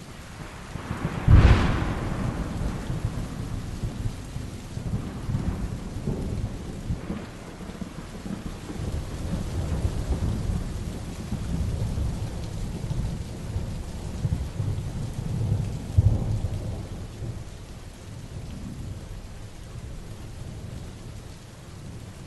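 Heavy rain falling steadily with thunder: a sharp, loud thunderclap about a second in that rolls on as low rumbling, and another loud rumble about sixteen seconds in.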